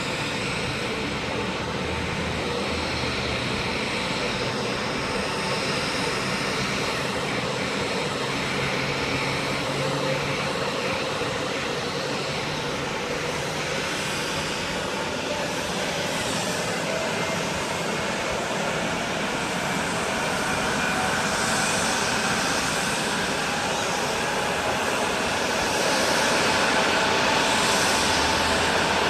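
Jet airliner engines running steadily, a constant rush with a thin whine that grows a little louder over the last few seconds.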